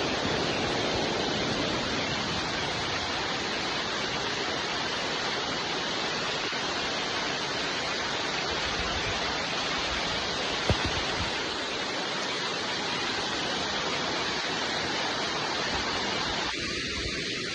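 Steady rain falling, an even hiss without a pause, with one sharp click about ten seconds in.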